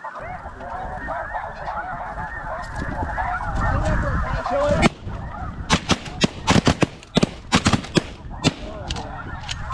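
A large flock of snow geese calling, many high honks overlapping at once. About five seconds in, the calling thins and a rapid series of sharp cracks takes over, about fifteen in three or four seconds.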